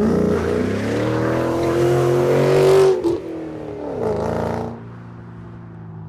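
2015 Ford Focus ST's turbocharged 2.0-litre four-cylinder engine revving. The pitch climbs for about three seconds and drops off sharply, a shorter blip of the throttle follows about four seconds in, and it settles back to a steady idle.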